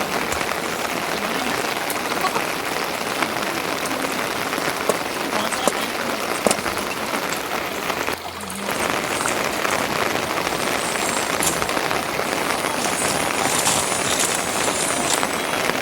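Steady rain falling, a dense hiss with scattered small drop ticks, briefly dipping about eight seconds in.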